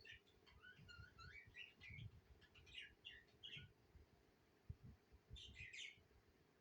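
Budgerigars chirping and warbling in quick, rising and falling phrases: a run of chatter through the first few seconds and another short burst a little before the end. The sound is faint, with low irregular thumps underneath.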